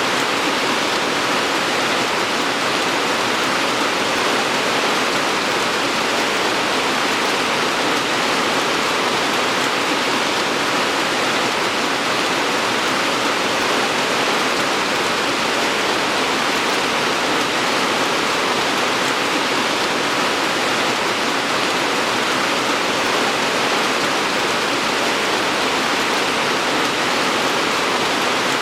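Steady, even rain hiss with no distinct drops or thunder.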